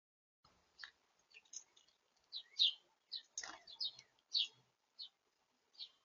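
Small birds at a feeder, heard close up, giving a quick, irregular run of short, sharp chirps and clicks, with a light knock about three and a half seconds in.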